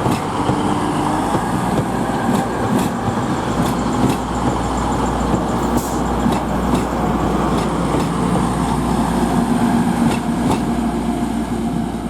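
Class 185 diesel multiple unit moving through the station, its diesel engines running with a steady low hum, and scattered sharp clicks of the wheels over the rail joints and points.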